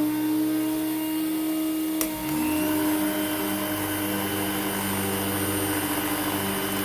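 Hoover Celebrity vacuum cleaner motor running steadily on low speed, with a single click about two seconds in, after which a lower hum joins the motor's tone.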